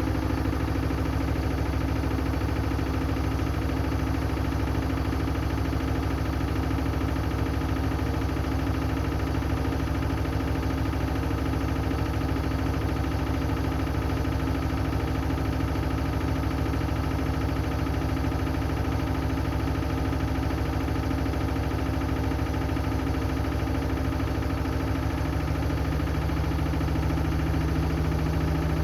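Hoover Axi 10 kg washing machine spinning its drum at speed near the end of a Rapid 30' cycle: a steady motor hum and whine with drum vibration. The pitch shifts about 25 seconds in, as the spin speed changes.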